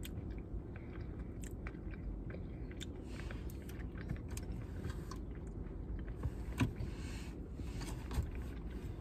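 A person chewing and biting into fried fast food, with scattered small clicks and crunches over a steady low hum.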